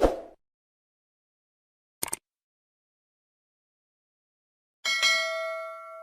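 Computer alert sounds: a short dull thump, a quick double click about two seconds later, then a ringing chime about five seconds in with several steady tones that fade slowly.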